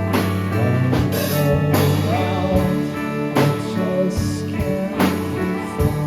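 Live band playing a song: guitars and bass holding chords over drum kit hits, with a voice singing in places.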